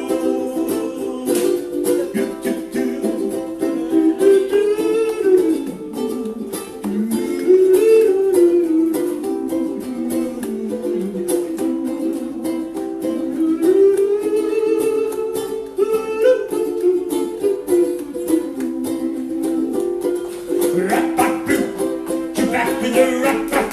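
Ukulele strummed steadily, playing the instrumental break between verses of a song.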